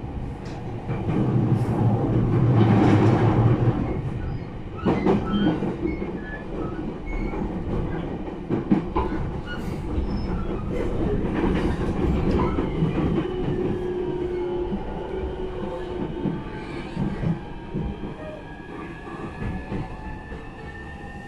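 Running sound inside a JR East E231-1000 series commuter train car: a steady rumble of wheels on rail, heaviest in the first few seconds, with scattered sharp clicks. From about halfway through, thin whining tones glide slowly in pitch over the rumble.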